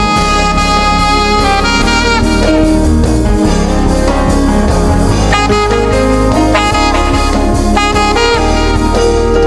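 Live gospel band music with a saxophone playing the lead melody over the band, some notes sliding in pitch.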